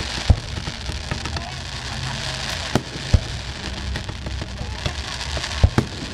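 Aerial fireworks going off: about five sharp bangs, with the loudest near the start, two close together midway and two more near the end, over a steady crackling haze.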